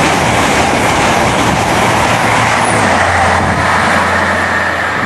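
Express passenger train passing at speed close by: a loud, steady rush of wheels on rail and air, with a low steady hum joining about three seconds in.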